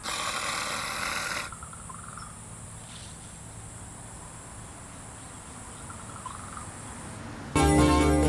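Crickets trilling steadily at a high pitch through most of the clip. For about the first second and a half a loud rough noise covers them, and near the end jingly music starts suddenly and is the loudest sound.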